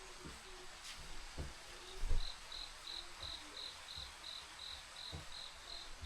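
A cricket chirping in an even rhythm, about three chirps a second, starting about two seconds in, with a few dull low thumps.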